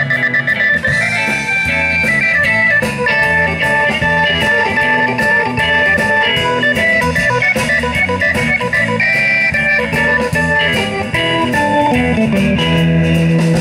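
Live rock band playing an instrumental passage: electric guitars over a steady drum beat, with no singing.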